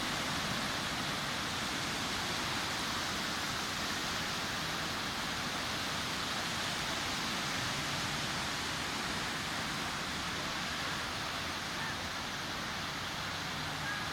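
Sea surf washing steadily onto a beach, an even rushing noise with no single wave standing out.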